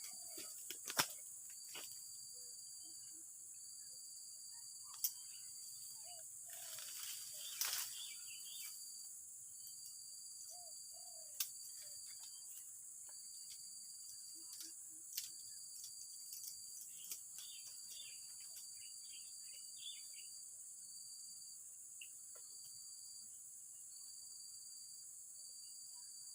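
Insects, crickets by the sound, trilling steadily in a high pitch in repeated bursts of a second or two over a constant high hiss, with a few faint sharp clicks.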